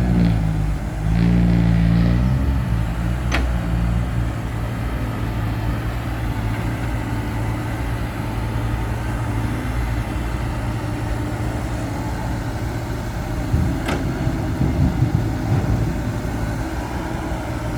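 Diesel engine running. In the first couple of seconds its pitch rises and falls, then it settles to a steady run, with a couple of sharp clicks along the way.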